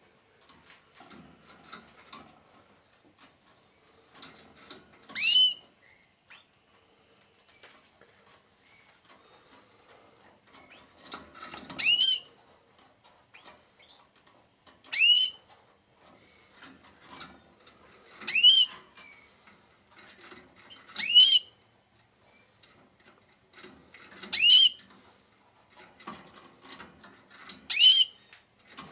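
Canary giving a short, loud, rising call seven times, about three seconds apart, with faint ticks and rustles between the calls.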